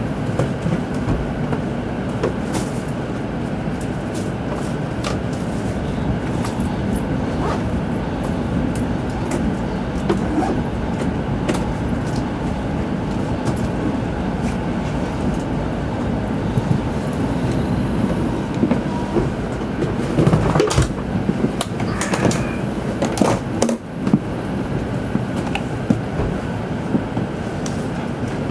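Shinkansen passenger-cabin noise while the train runs: a steady low rumble of wheels on rail, with scattered light clicks and a few louder knocks about three-quarters of the way through.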